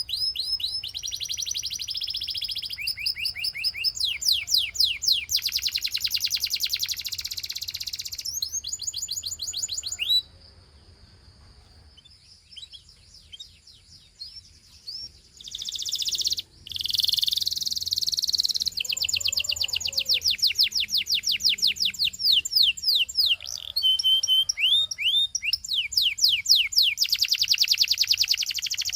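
Gloster canary singing long trills of rapidly repeated high notes, run after run with changes of pace. About a third of the way in the song stops for several seconds, with only a few scattered chirps, then starts again with more fast trills.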